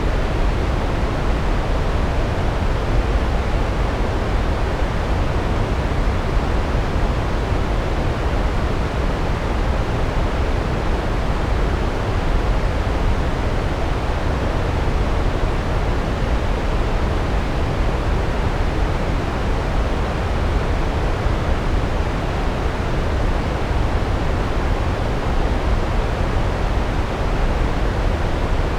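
Large waterfall: a steady, loud rush of falling water, heaviest in the low end, with no breaks or changes.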